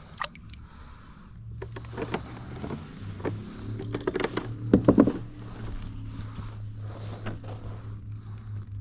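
Knocks and clatter as a freshly landed redfish is handled in a kayak, the loudest thumps about five seconds in, over a steady low hum that sets in about a second and a half in.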